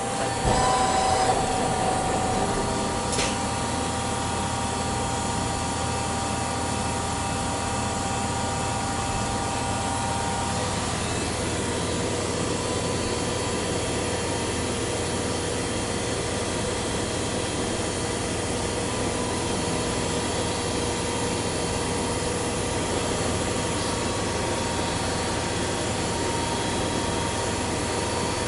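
Metal lathe running steadily while turning a round bar for a muffler end: an even machining noise with a faint steady whine. The tone shifts briefly in the first second or so, and a second steady tone joins about eleven seconds in.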